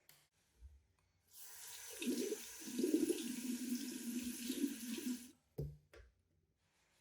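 Water running from a tap for about four seconds, growing louder a moment after it starts and then shut off, followed by two short knocks.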